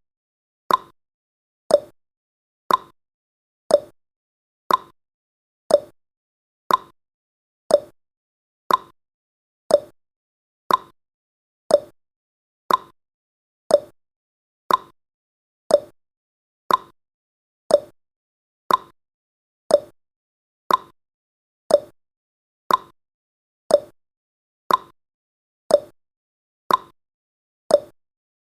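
Countdown timer's ticking sound effect: a short, sharp click once every second, steady throughout.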